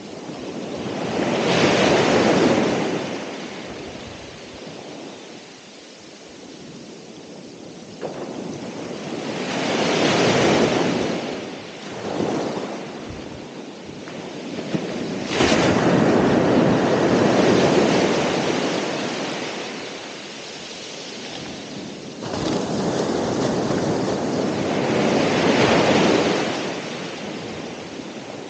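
Ocean waves breaking and washing up the shore, rising and falling in about four surges, each a few seconds long, with one sharper crash about halfway through.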